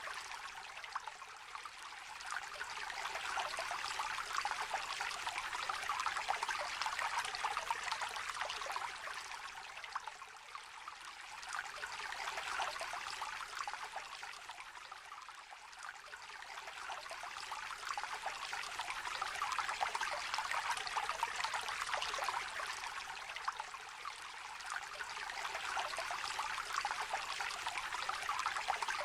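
Shallow river trickling and babbling over stones, a steady splashy rush that swells and fades gently every few seconds.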